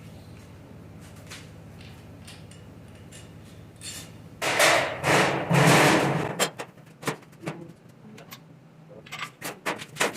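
Workshop sounds of an engine teardown: a steady low hum, then a loud rough burst lasting about two seconds midway, followed by scattered sharp metallic knocks and clinks of tools on the engine.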